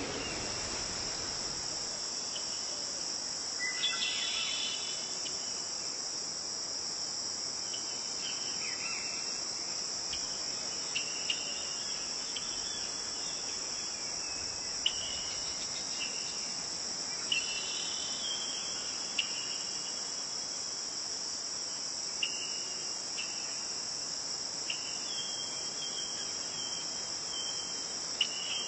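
A chorus of crickets trilling in a steady high-pitched drone, with short chirps standing out every second or two.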